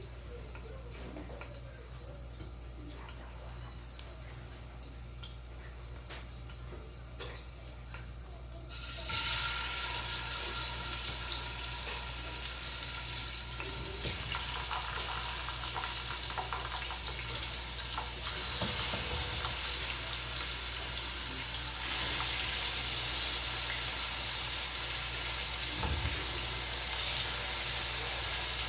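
Pork ribs frying in hot oil in a pan. It is quiet at first with a few light clicks; about nine seconds in a sizzle starts and gets louder twice more.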